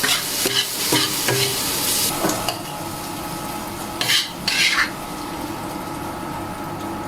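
Sliced yellow boletes with green peppers and garlic sprouts being stir-fried: a spatula scrapes and tosses them in the hot pan about three times a second for the first two seconds or so, then a steady sizzle, broken by two quick scrapes about four and a half seconds in.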